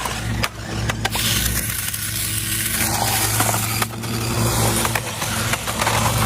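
A vehicle motor running steadily, with a low hum, and several sharp knocks and scrapes scattered through it.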